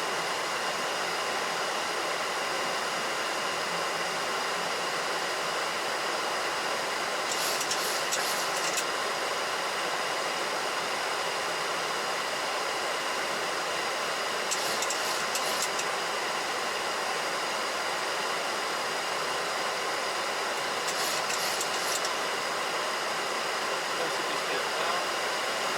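Steady rushing flight-deck noise of a Boeing 737NG in flight, airflow and air conditioning, with a few faint steady whining tones. Three short bursts of fast, high ticking come about seven seconds apart.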